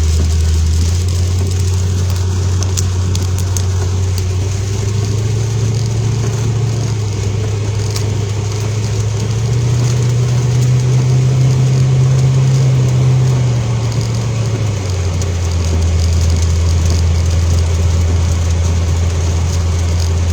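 Car engine running while driving, a steady low hum that rises in pitch in steps over the first ten seconds as it speeds up, then drops back about fifteen seconds in.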